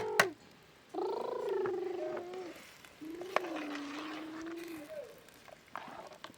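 Sheep bleating: two long wavering calls, each about a second and a half, the first with a pulsing quaver and the second lower and steadier.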